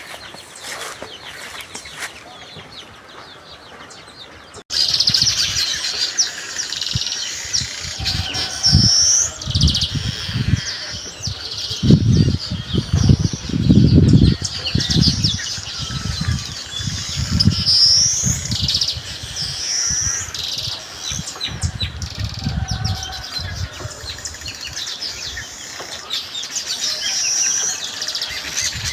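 A flock of small birds chirping and chattering densely, with a short rising whistled note that comes back every several seconds. It is faint for the first few seconds, then suddenly much louder, with bouts of low thumps mixed in near the middle.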